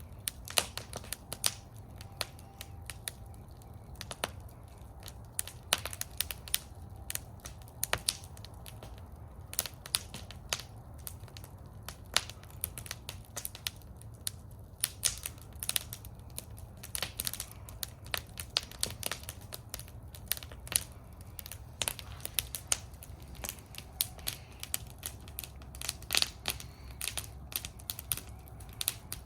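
Wood fire burning in a fire bowl, crackling and popping irregularly over a steady low rumble of the flames.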